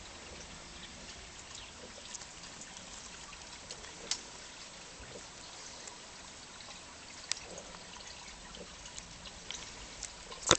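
Faint rustling and small beak clicks of a cockatiel preening its feathers, with a sharper tick twice. A loud knock right at the end.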